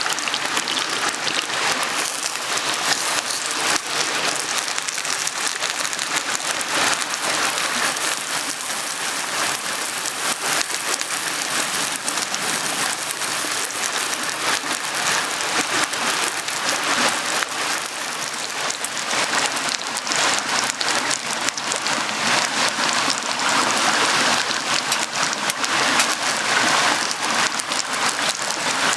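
Shallow stream babbling and splashing steadily, a continuous close water sound with fine crackle in it.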